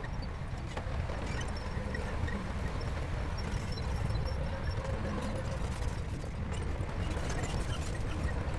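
Crawler bulldozer's diesel engine running with a steady low rumble, with scattered metallic clicks and clanks over it.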